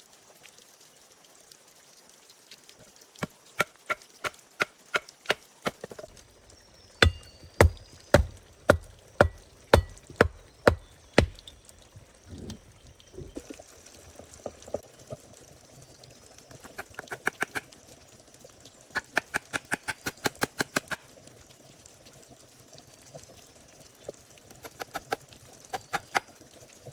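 Series of sharp tool strikes in runs: a steady run of about three a second, then heavier blows with a dull thud about two a second, then quicker, lighter clusters of knocks later on.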